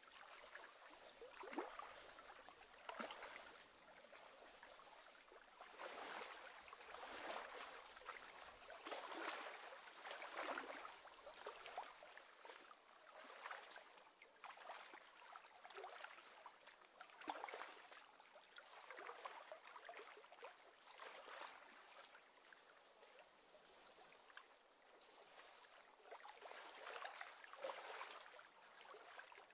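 Faint water lapping and splashing, small wind-driven waves breaking in irregular surges every second or two.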